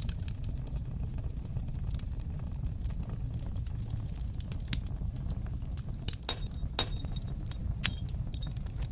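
Wood fire crackling in a fireplace: a steady low rumble of flames under constant small crackles, with a few louder pops in the second half, the sharpest near the end.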